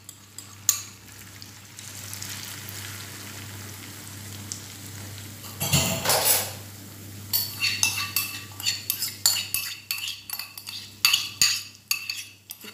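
Cabbage and egg batter sizzling in hot oil in a frying pan, with a metal spoon scraping and clinking against a ceramic bowl and the pan as the last of the batter is scraped out. Steady sizzling in the first half, a brief louder rush about six seconds in, then rapid clinks and scrapes through the second half.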